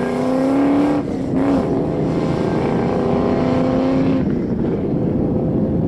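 Cammed 2002 Ford Mustang GT's 4.6-litre V8, through long-tube headers and Flowmaster 40 mufflers, accelerating away on a mild launch. Its pitch climbs, drops for an upshift about a second in, then climbs again. Near the end the engine fades into wind noise as the car draws off.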